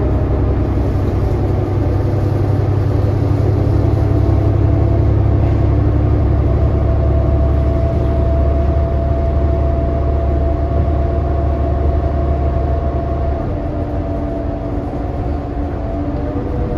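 A 2018 New Flyer XD40 diesel transit bus under way, heard from inside: a loud, steady engine and drivetrain rumble with a whine running through it. About thirteen seconds in, the rumble and whine ease off. The uploader counts this coach among the ones that sound "messed up".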